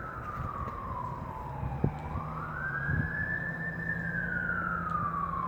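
Emergency vehicle siren in a slow wail: its pitch slides down, rises quickly about two seconds in, then slides down again. A steady low hum lies underneath.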